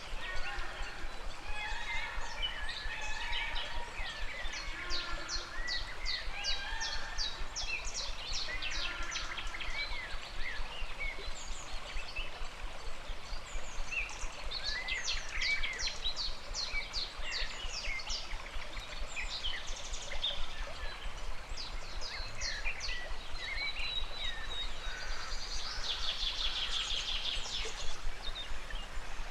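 Many birds chirping and calling over a steady rush of river water, with several rapid trilling runs of calls and a buzzy call near the end.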